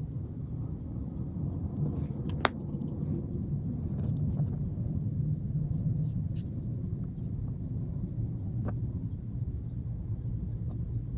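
Steady low rumble with a few sharp small clicks, the loudest about two and a half seconds in.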